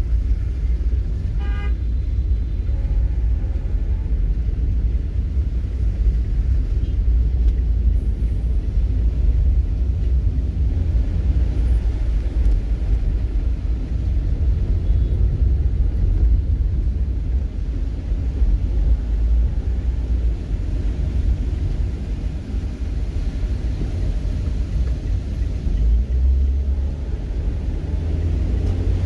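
Steady low rumble of road traffic or a vehicle in motion, with a short horn toot about a second and a half in.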